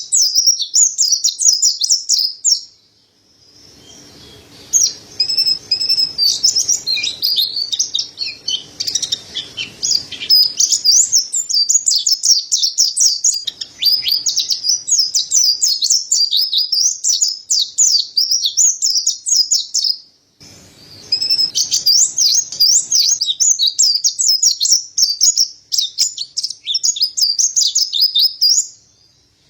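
Mountain white-eye (white-breasted pleci, Zosterops montanus) singing a fast, continuous high twittering song, broken by short pauses about three seconds in and about twenty seconds in.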